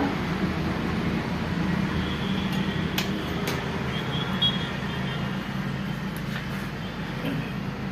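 An engine running steadily, with two sharp metallic clicks about three seconds in.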